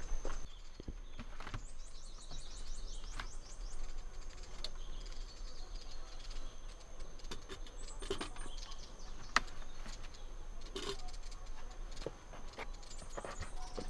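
Small birds singing fast, high chirping trills, once about two seconds in and again near the end, over a steady thin high tone. A few light knocks from things being handled in a wooden shelter.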